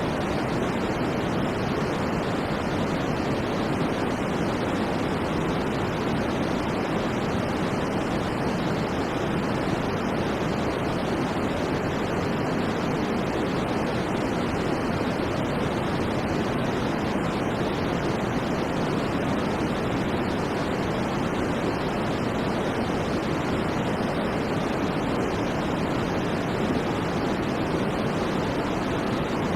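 Steady white noise: an even, unchanging hiss with no rhythm or swells, weighted toward the lower pitches so it sounds soft rather than sharp.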